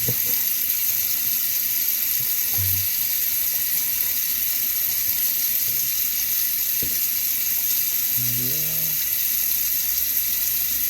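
Steady hiss of water running from a kitchen tap, with a few light knocks.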